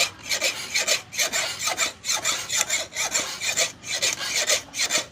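Hand file rasping back and forth over a sickle's metal blade in even strokes, about two a second.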